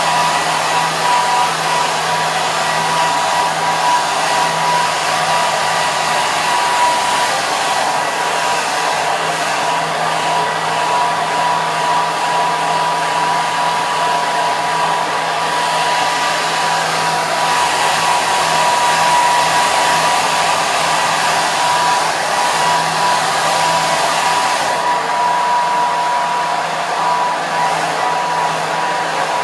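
Hair dryer running continuously, a steady rushing blow of air with a constant motor whine held at one pitch.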